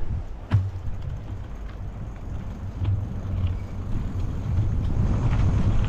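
Wind buffeting the microphone over the low rumble of an e-bike being ridden, growing louder toward the end, with a sharp click about half a second in.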